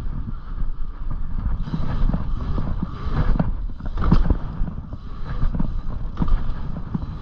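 Dirt-jump bicycle being ridden over dirt: a steady tyre rumble with frequent small knocks and rattles from the bike, and wind buffeting the microphone.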